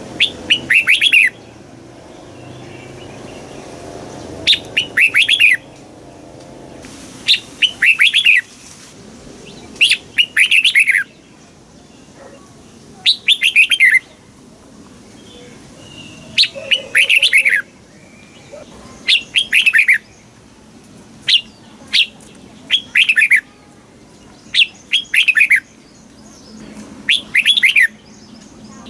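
Red-whiskered bulbul singing short, bright phrases, each a quick run of notes lasting about a second, repeated about ten times with gaps of two to three seconds.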